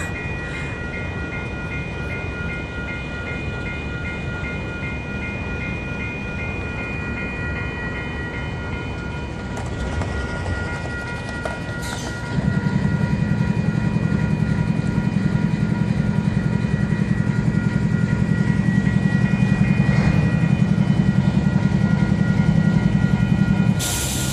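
Railway level-crossing warning bells ringing steadily over a low engine rumble from the train held at the crossing. The rumble grows clearly louder about twelve seconds in.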